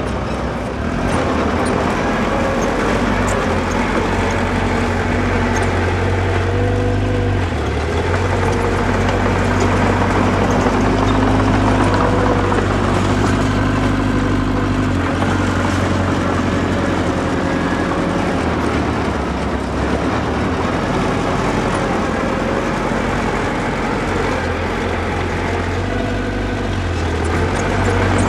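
Diesel engine of earthmoving machinery running steadily under load, its pitch rising and falling a few times as the revs change.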